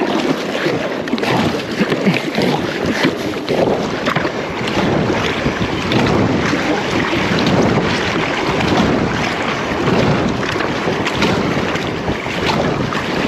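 Wind buffeting the microphone over water sloshing around a kayak out at sea, a loud, steady, rushing noise.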